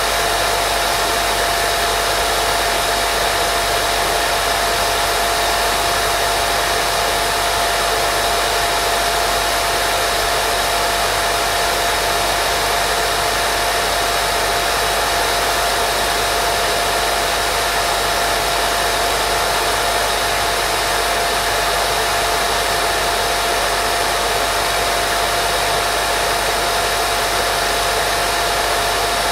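Steady white noise played for baby sleep: an even, unbroken hiss with a faint steady tone in the middle.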